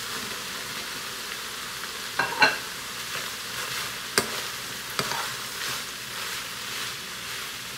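Diced raw potatoes and chorizo sizzling in a frying pan, steady throughout. A metal spoon stirs them and knocks sharply against the pan a few times, loudest about two and a half seconds in.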